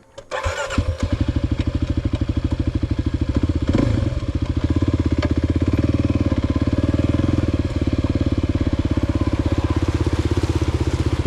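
2023 Kawasaki KLX 300's single-cylinder four-stroke engine coming in loud about a third of a second in, then running steadily with evenly spaced firing pulses as the dirt bike moves off.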